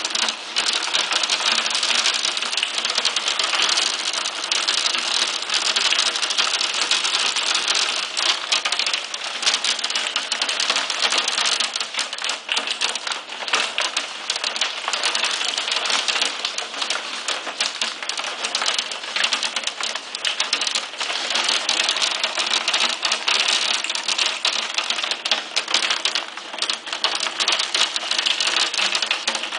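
Hailstones about one to two centimetres across pelting down with rain, a steady, dense clatter of small hard impacts.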